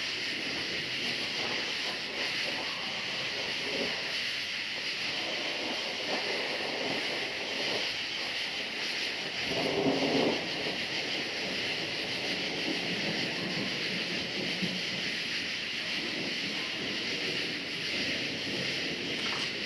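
A steady chorus of crickets, one unbroken high band of chirping, over a low rolling rumble of distant thunder that swells briefly about halfway through.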